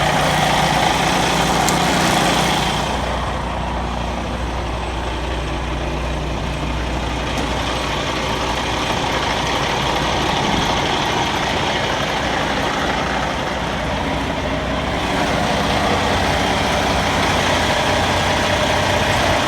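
Heavy diesel truck engine idling with a steady low drone and broad noise; the lowest drone weakens about ten seconds in.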